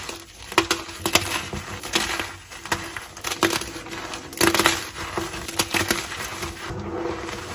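Blocks of gym chalk being crushed and crumbled: an irregular string of crisp crunches and crackles over a fine crumbling hiss.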